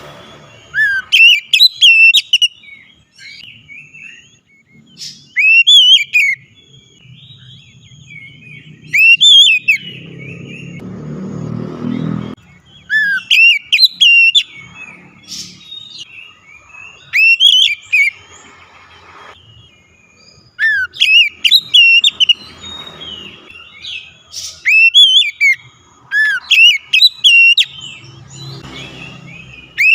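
Oriental magpie-robin (kacer) singing loud, clear whistled phrases of quick rising and falling notes, each phrase a second or two long and repeated every few seconds with short pauses between.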